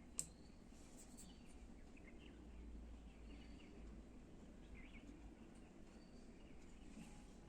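Faint bird chirps at a distance over a low background hum, with one sharp click just after the start.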